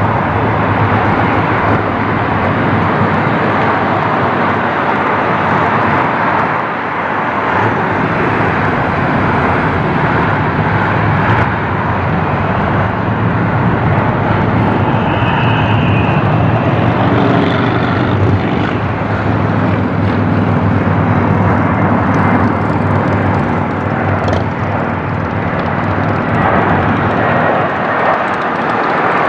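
Airbus A320's twin IAE V2500 turbofan engines running at high power, a loud, steady jet noise.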